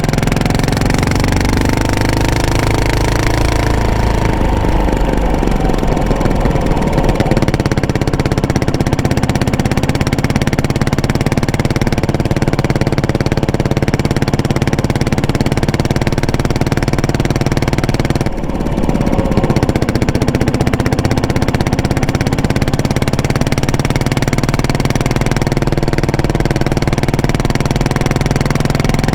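Yamaha SR400's air-cooled single-cylinder four-stroke engine running through an aftermarket muffler while being ridden. The engine pitch falls about four seconds in, then holds steady, with a brief break and pickup in the sound just past halfway.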